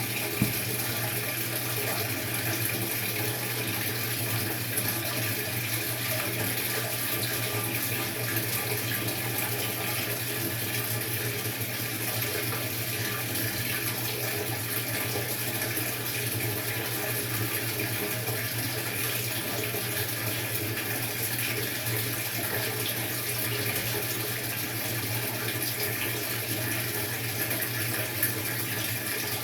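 Maytag MVWX655DW1 top-load washer running its tub-clean cycle: a steady rush of water with a low hum underneath, and a couple of faint clicks.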